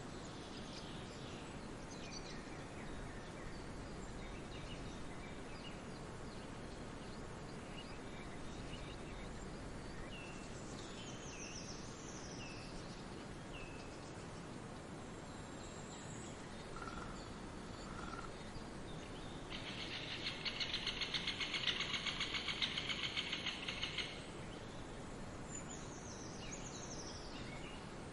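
Forest ambience: scattered bird chirps and short down-slurred whistles over a steady rushing background. Just past the middle, two short tones are followed by a loud, rapidly pulsing trill lasting about four seconds, the loudest sound.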